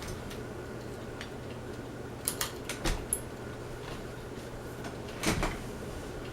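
Westinghouse Apollo Elite ceiling fan running with a steady low motor hum, broken by a few short clicks and knocks about two, three and five seconds in.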